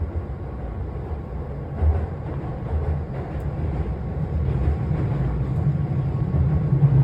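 Keihan electric train running on rails: a steady low rumble that grows gradually louder.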